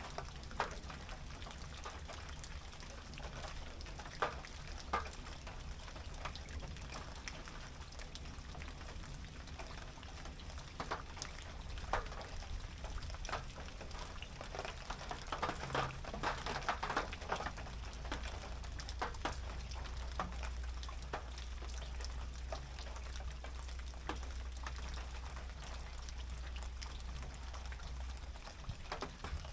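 Rain falling on a tin roof, with separate drops striking the metal at irregular intervals. The drops come thicker for a couple of seconds about halfway through. A low steady rumble runs underneath.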